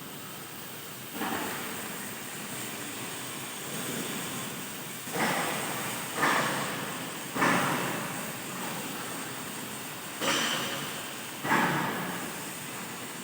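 Automatic plate-cutting machine at work: a steady hiss with six sudden bursts of hissing noise, each fading away over about a second.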